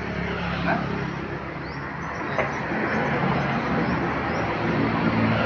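A heavy road vehicle's engine running as it approaches along the road, growing louder near the end, with a couple of faint clicks along the way.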